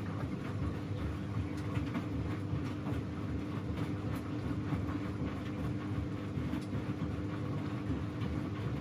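Domestic washing machine running through a bedding wash: a steady motor hum over a low rumble from the turning drum, with light irregular clicks.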